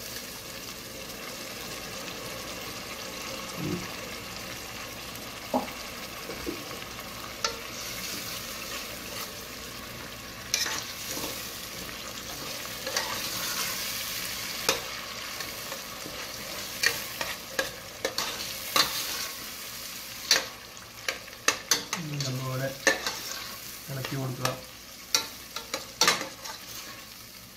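Onions and tomatoes in a steel pot sizzling steadily in oil, wet with freshly poured ginger-garlic juice. From about ten seconds in, a metal ladle stirs the mixture, scraping and clinking against the pot's sides over and over.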